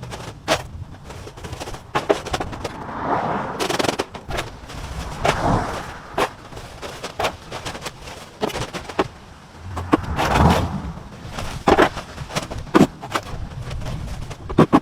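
Newly lit wood fire crackling, with sharp irregular pops and snaps and a few swells of rushing noise.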